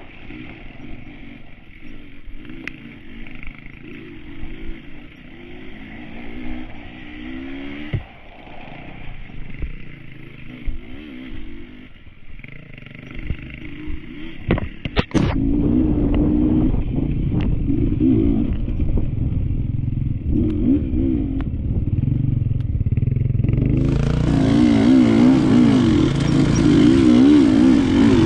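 Enduro dirt bike engine running and revving up and down over rough woods trail, with clatter and scraping from the bike. A sharp knock comes a little past halfway, after which the engine runs louder, with more hiss added near the end.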